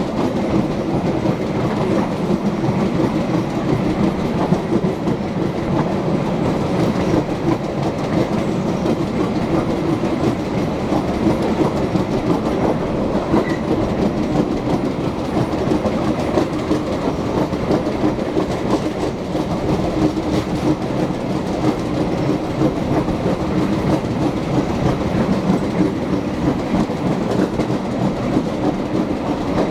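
Limex Sriwijaya passenger train in motion: a steady running rumble of the coaches, with wheels clacking over rail joints.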